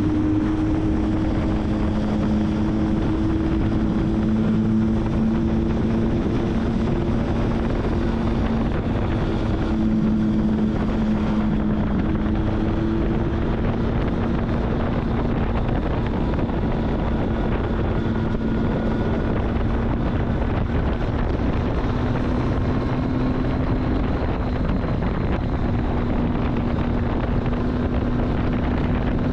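Triumph Street Triple's three-cylinder engine running at a steady pitch, with wind rushing over the microphone.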